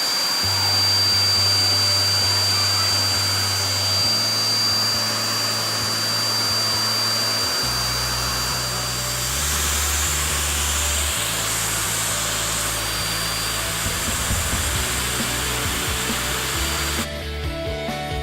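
Vacuum cleaner running steadily, a loud rushing hiss with a thin high whine, over background music with a bass line. The vacuum cuts off suddenly near the end, leaving only the music.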